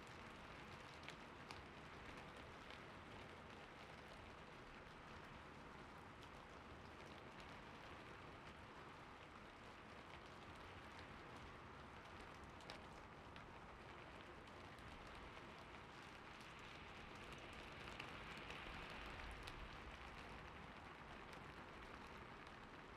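Faint, steady gentle rain, swelling a little about three quarters of the way in, with a few isolated keyboard clicks scattered through it.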